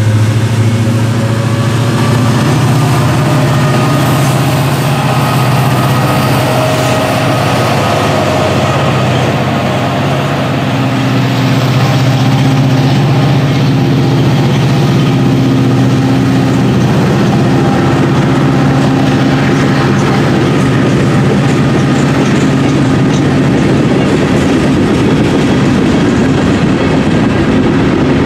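Diesel freight locomotives passing close by with their engines running in a steady low hum, then covered hopper cars rolling past with a loud rush of wheels on rail and clicking over the rail joints.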